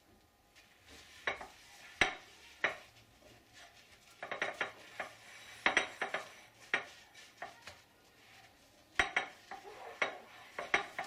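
Dishes and cutlery clinking and knocking together at irregular intervals, some in quick clusters, as a child washes them by hand.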